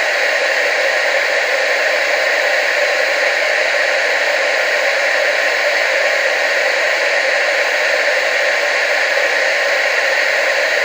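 TV static: a loud, steady, unchanging hiss, strongest in the upper middle range, with hardly any bass.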